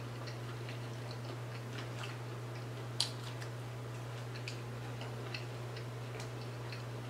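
A person chewing fried fish at close range: faint, irregular crunches and mouth clicks, with one sharper click about three seconds in, over a steady low hum.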